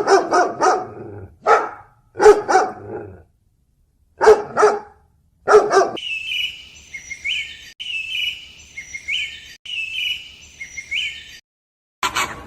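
A dog barking in short bursts, some in quick runs of two or three, over the first six seconds. Then a bird calling a repeated high chirping phrase about every second and a half for about five seconds.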